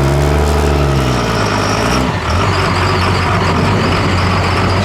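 Turbocharged diesel pickup truck engine running hard, as in a truck pull. It is a loud, steady engine sound with a faint high whine above it. The pitch wavers in the first two seconds, and the sound briefly dips about two seconds in.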